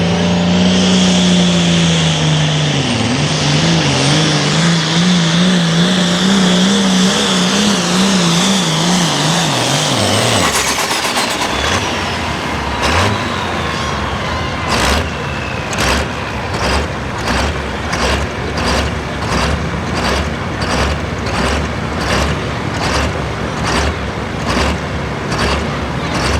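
Modified pulling tractor's diesel engine running wide open under load, its pitch wavering rapidly up and down, until it drops off about ten seconds in. After that comes a slow, regular pulsing, about one to two beats a second.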